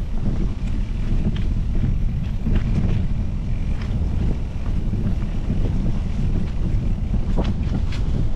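Wind buffeting the microphone of a camera riding on a moving mountain bike, a steady low rumble, with a few sharp ticks and clicks from the bike and trail scattered through it.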